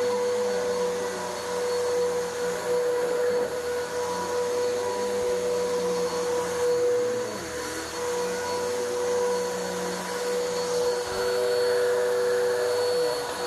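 Bissell vacuum cleaner running steadily over carpet, a constant motor whine over the rush of suction, pre-vacuuming dry soil out of a carpet before cleaning.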